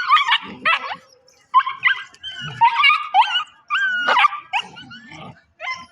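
Puppies play-fighting: quick clusters of short, high-pitched yips and whines, with a brief lull about a second in.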